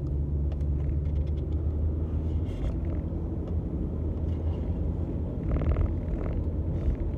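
Car cabin road and engine noise while driving: a steady low rumble with a hum that fades about four seconds in. A brief higher-pitched sound comes a little over five seconds in.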